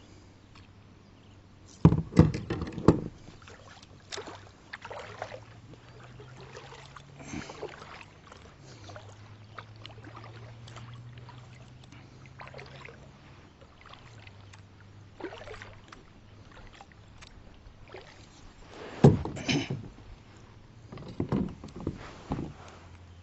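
Knocks and clatter of gear against a fishing kayak's hull, in two bursts: a few sharp knocks about two seconds in and a longer run of them near the end. Fainter clicks come in between.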